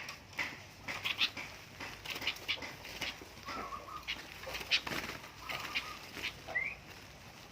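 Two sooty-headed bulbuls fluttering and scuffling, a run of short wing flaps and rustles, with a few brief chirps and one short rising call near the end.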